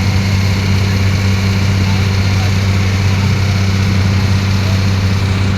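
Ferry boat's engine running steadily, a loud, even low hum.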